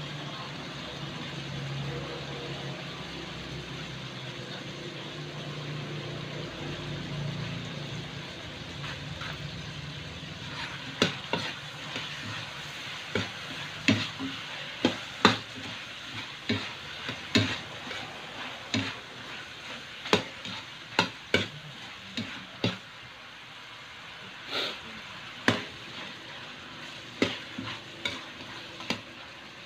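Chicken adobo with tomato paste sizzling steadily in a large wok, with a low hum under the first several seconds. From about a third of the way in, a spatula stirs it, knocking and scraping against the pan about once a second.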